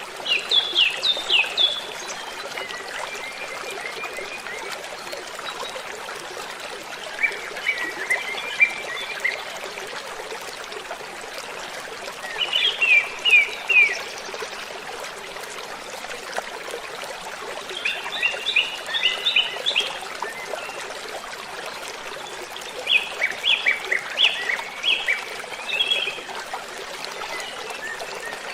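Waterfall running steadily, with birds singing short phrases of quick downward-sweeping notes every few seconds.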